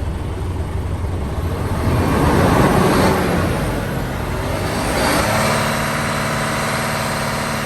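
Isuzu Giga truck's 6UZ1 six-cylinder diesel engine being revved up from idle: it speeds up about two seconds in, peaks near three seconds, then holds steady at a raised speed from about five seconds on. It runs smoothly, the sign of an engine in good condition.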